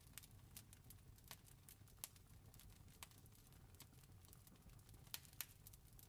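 Campfire crackling faintly, with irregular sharp pops of burning wood, a few louder ones about two seconds in and near the end, over a steady low rumble.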